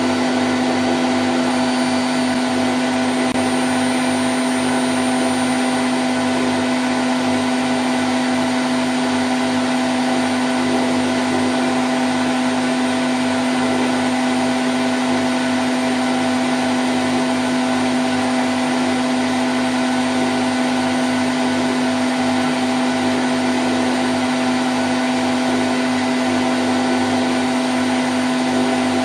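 Candy Grand O' F106 front-loading washing machine in its spin cycle at 1000 rpm: a steady whirring with a strong low whine, holding a constant speed.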